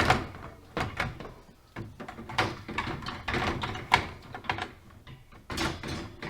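KitchenAid fridge's plastic freezer drawer being handled and worked onto its rails, with an irregular run of knocks, clicks and scrapes.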